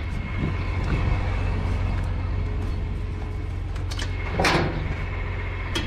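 Farm machinery running with a steady drone and hum, with a few sharp clicks and a short rushing swell about four and a half seconds in.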